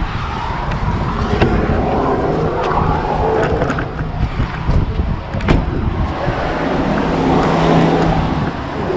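Vehicle driving on the highway, heard from inside the cabin: a steady low engine and road rumble with a few short clicks.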